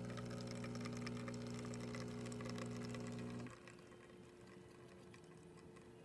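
DeLonghi Magnifica S's newly replaced vibratory water pump humming steadily as it pushes water through the coffee to brew an espresso, then cutting off abruptly about halfway through; a faint trickle follows.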